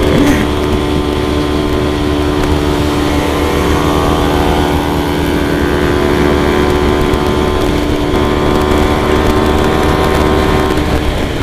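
Motorcycle engine running at a steady speed while riding, its pitch holding level, with a low rumble of wind and road underneath.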